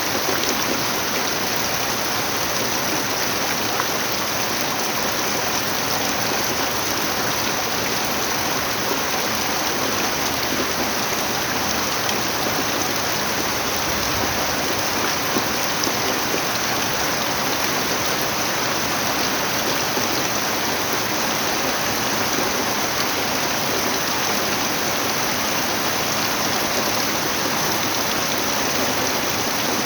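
Steady rain falling, an even unbroken hiss with no thunder or other distinct sounds.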